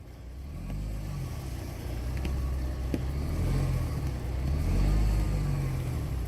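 Truck engine running at low revs as the truck creeps slowly, its pitch rising and falling gently and growing louder after the first second.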